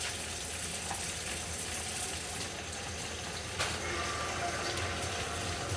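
Water running steadily from a tap, with a short click about halfway through.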